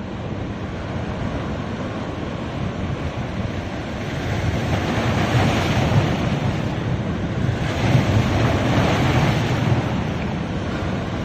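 Ocean waves washing onto a beach: a steady surf wash with two waves swelling up and breaking, about five seconds in and again about eight seconds in.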